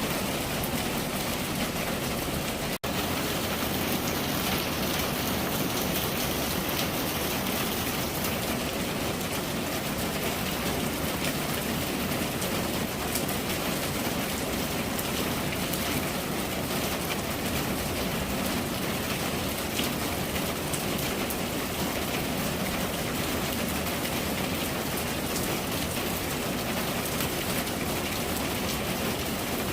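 Steady rain falling, an even hiss of drops with no let-up, broken only by a brief dropout about three seconds in.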